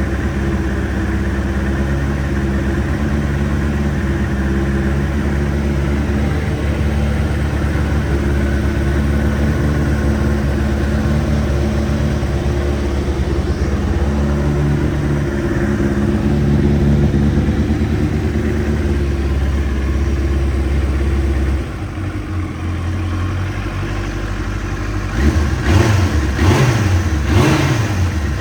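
Kawasaki ZXR750R's inline-four engine with a full Micron exhaust idling steadily, the note dropping a little past two-thirds of the way in, then revved in several quick throttle blips near the end.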